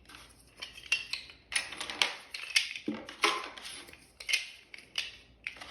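Plastic GraviTrax building pieces clattering and clicking against one another as they are rummaged through and picked out by hand, in irregular bursts throughout.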